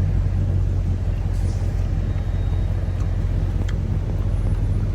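Chevrolet Camaro SS 1LE's naturally aspirated V8 running steadily at low revs: an even, low hum with no revving.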